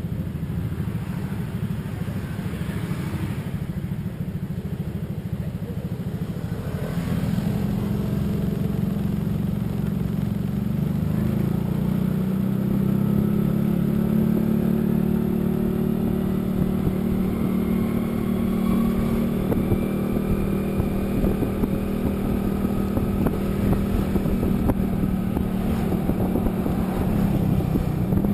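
Vehicle engine running while riding along a road, with road rumble; the engine note rises and grows louder about seven seconds in, then holds steady.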